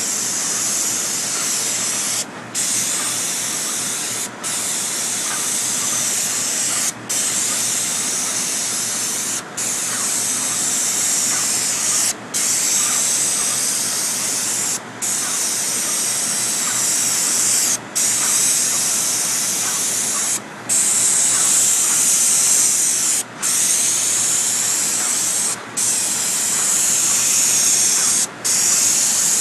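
Pressure washer spraying a high-pressure jet, a steady loud hiss broken by short gaps every two to three seconds.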